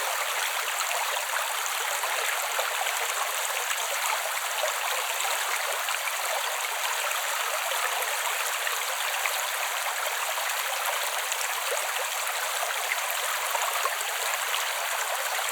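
Creek water flowing steadily over rocks, a light bubbling and splashing with no low rumble.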